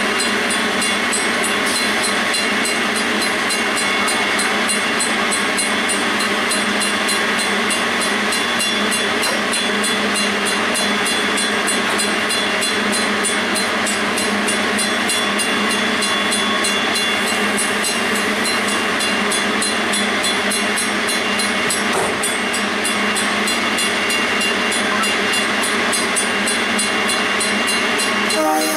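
Steady hissing and running noise from a stationary passenger train standing at the platform, heard from track level right beside the coach's underframe.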